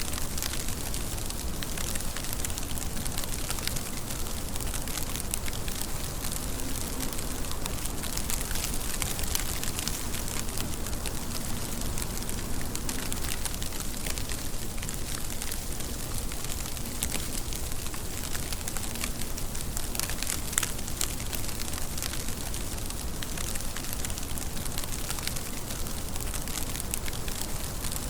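Steady rainfall, an even hiss dotted with many crisp ticks of individual drops striking close by.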